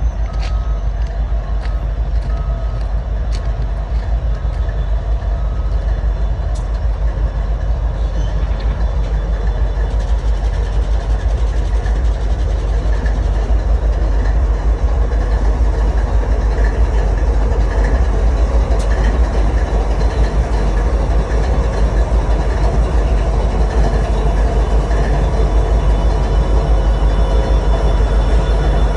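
Diesel freight train rolling past, a continuous heavy rumble with faint steady tones that slowly grows louder, and a few small clicks in the first seconds.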